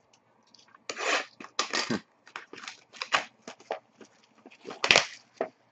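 Hockey trading cards and their packaging being handled: a run of short rustling, sliding strokes, the loudest about five seconds in.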